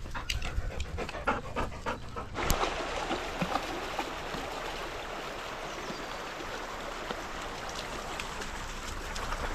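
A dog panting close to the microphone. About two and a half seconds in, the sound changes abruptly to a steady, even hiss.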